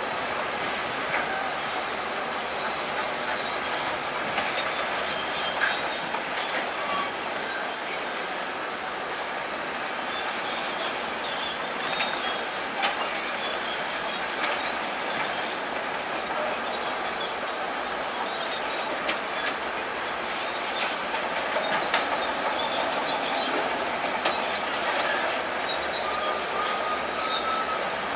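Bulldozer working, its steel crawler tracks clanking and squealing steadily, with frequent small metallic clicks.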